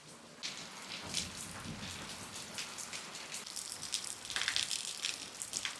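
Heavy rain pattering and splashing, a dense crackle of drops that gets louder about half a second in.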